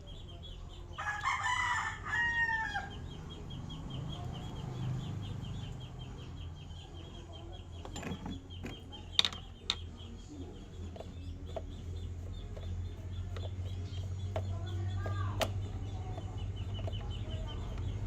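A rooster crows once about a second in, with a shorter call near the end, over a steady low hum.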